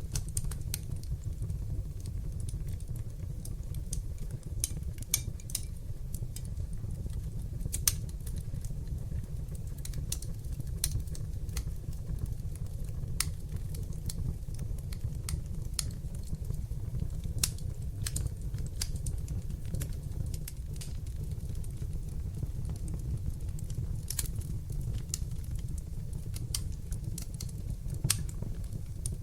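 Fire in a fireplace crackling, with frequent irregular sharp pops and snaps over a steady low rumble of the flames; a couple of louder pops stand out.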